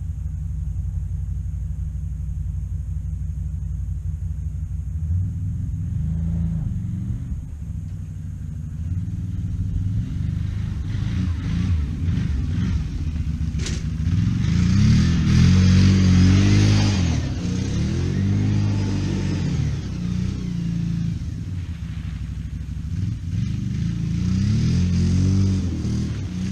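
A vehicle engine running steadily at a low idle, then revved up and down several times from a little before halfway, loudest a few seconds after the midpoint. There is a single sharp click about halfway through.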